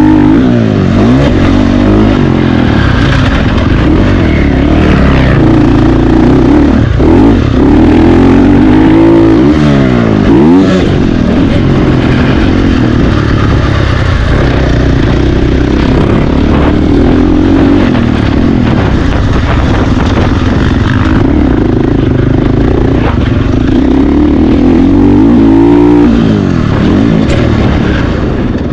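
450-class motocross bike engine being ridden hard, revving up and dropping back again and again as it accelerates, shifts and slows. It is loud throughout.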